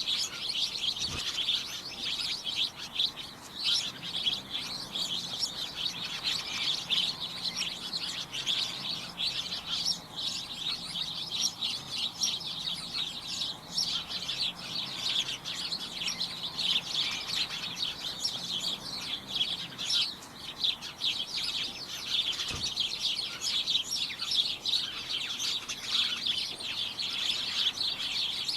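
Many small birds chirping at once, a dense, continuous chatter of short high chirps overlapping one another.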